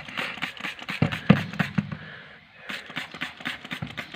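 Irregular clicks, taps and scraping from hands working on a car's rear drum-brake assembly while it is being cleaned, with a short hiss in the middle.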